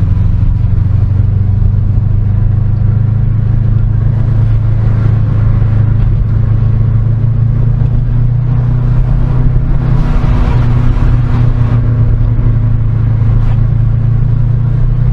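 Subaru Impreza WRX STI's turbocharged flat-four engine and road noise during a steady drive, a low even drone that swells briefly about ten seconds in.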